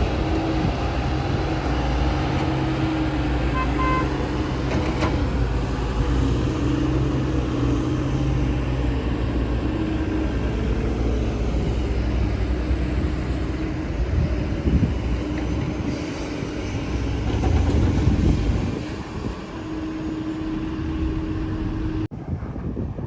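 Diesel engine of a working JCB digger running steadily, with a held whine-like tone that comes and goes. The sound drops off suddenly near the end.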